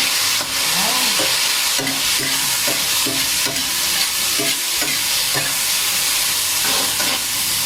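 Sliced yellow bolete mushrooms sizzling in a hot pan over high heat while being stir-fried. A spatula scrapes and turns them in short, repeated strokes.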